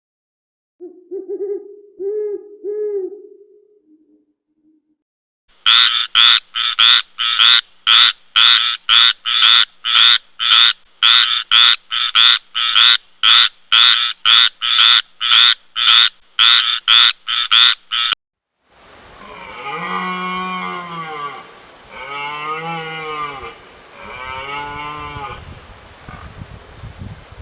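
A few short low hoots, then a frog croaking loudly in a fast, even series of about thirty calls at roughly two and a half a second that stops abruptly. After that, cattle mooing in several long, drawn-out calls.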